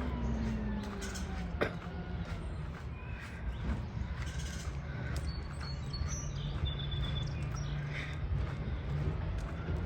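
Older recycling garbage truck's diesel engine running with a steady low hum, its pitch dipping near the start and climbing again later as the packer works. Birds chirp lightly over it, and there is a single sharp click early on.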